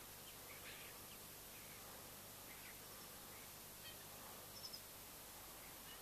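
Quiet outdoor ambience with faint, scattered bird calls, and two short high chirps about four and a half seconds in.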